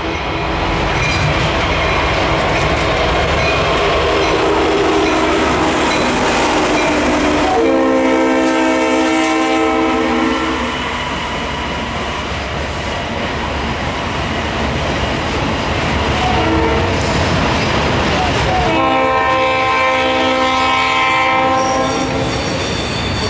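Diesel freight train passing close by: EMD SD70 and GE ES44AC locomotives running past, then autorack cars rolling and clattering over the rails. A locomotive air horn sounds a long blast about eight seconds in, a short one near sixteen seconds and another long blast near the end.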